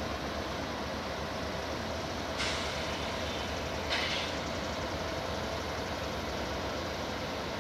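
Distant CSX freight train's diesel locomotives running across a steel truss rail bridge, a steady low drone, with two short hisses about two and a half and four seconds in.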